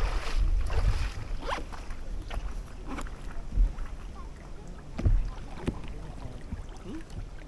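Kayak paddling in strong wind: gusts buffet the microphone with a low rumble, heaviest in the first second and easing after. Scattered splashes and knocks from the paddle and water can be heard through it.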